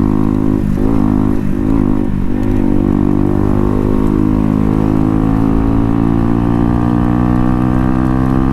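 Bajaj Pulsar NS125's single-cylinder engine running steadily through an SC Project aftermarket exhaust.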